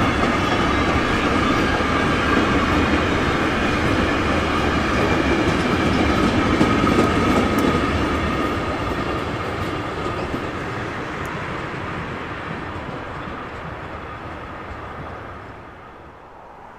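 Train rolling past on the line: a steady rumble of wheels on rail with a thin, high ring above it. It dies away over the second half as the train moves off.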